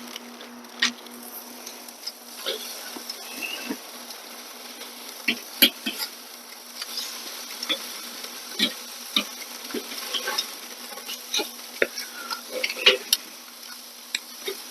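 Bone-in, skin-on chicken thighs searing on a Weber kettle grill grate, with a steady sizzle and irregular sharp crackles and pops as fat renders and drips.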